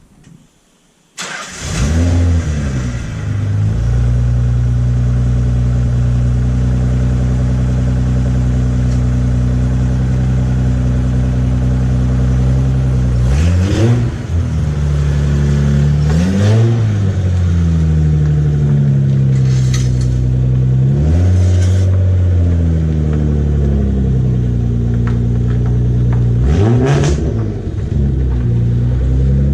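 Nissan 300ZX (Z32) twin-turbo VG30DETT V6 starting up through a turbo-back Kakimoto exhaust with test pipes (catalytic converters deleted), flaring briefly and settling into a steady idle. From about halfway through it is revved a few times, each rev rising and falling back to idle.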